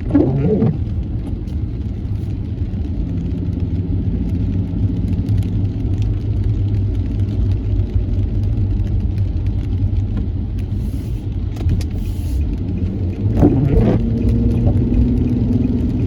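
Car driving in traffic, heard from inside the cabin: a steady low rumble of engine and road noise with a faint steady engine tone. Two short wavering higher-pitched sounds break in, one right at the start and one near the end.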